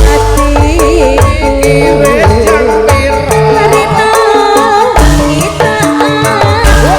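Javanese campursari band playing a song, a sung melody over held instrumental notes and a steady drum beat.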